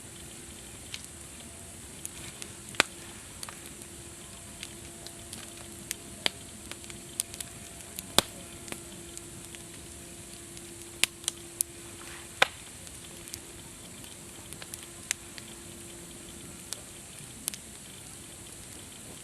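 Campfire burning with a steady crackle and irregular sharp pops from the wood, a few of them much louder than the rest. A faint steady tone comes and goes underneath.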